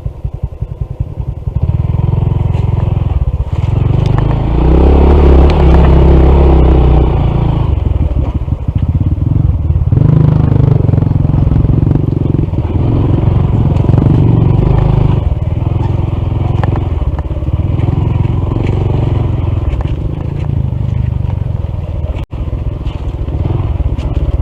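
Honda CT125 motorcycle's single-cylinder engine running as the bike is ridden along a rough trail, getting louder about two seconds in. The engine has a faulty piston and a misaligned valve.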